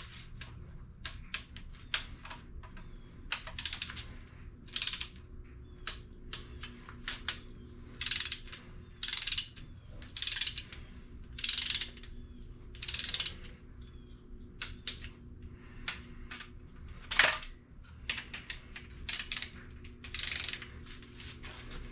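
Aerosol spray paint can: clicking and rattling, then sprayed in repeated short hissing bursts of about half a second each, with a steady low hum underneath.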